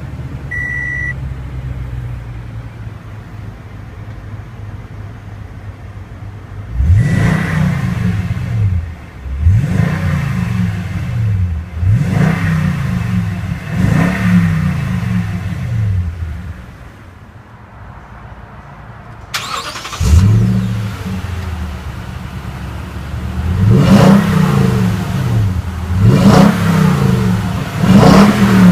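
Toyota Tundra 5.7-litre V8 idling just after start-up, then revved in short blips about every two seconds, each falling back toward idle. It settles briefly at idle, then is blipped several more times. A repeating warning chime beeps a few times in the first second.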